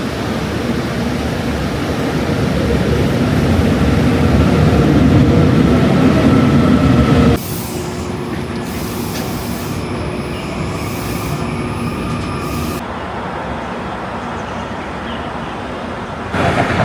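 Steady rumbling vehicle noise that swells over the first seven seconds, then drops off suddenly, with two more sudden changes later.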